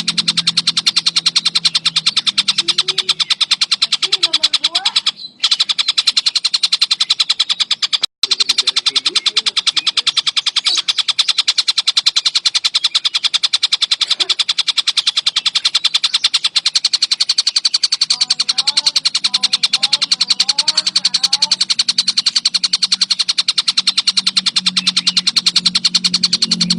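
Tengkek buto kingfisher calling in a fast, continuous rattling series of sharp, high notes, with two brief breaks about five and eight seconds in.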